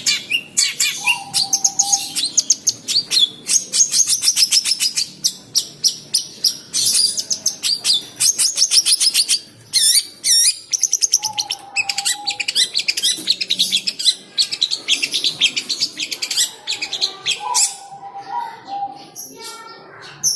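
Long-tailed shrike (cendet) in a long, loud bout of song: rapid runs of high chirps and trills, broken by a few short, lower whistled notes.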